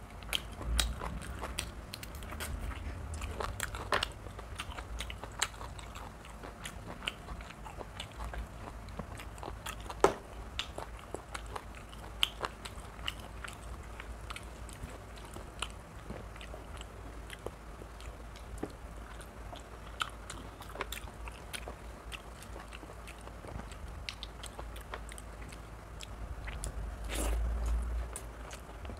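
Close-miked eating: a man chewing and biting through mouthfuls of mutton curry and rice eaten by hand, with many short sharp wet clicks. A brief louder low rumble comes near the end.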